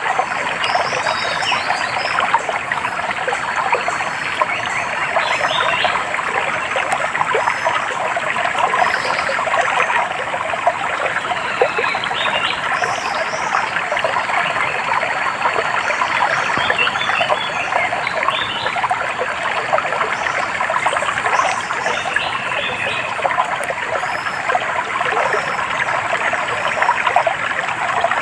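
Small stream trickling and babbling steadily, with short high bird chirps scattered over it.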